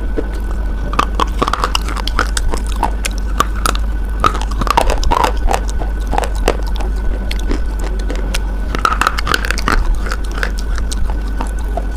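Close-miked crunchy biting and chewing of a hard white bar: irregular crackling crunches that come in clusters, over a steady low hum.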